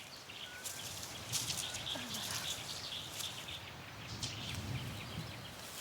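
Quiet outdoor ambience with scattered short rustles and knocks, and a brief low call or grunt about two seconds in.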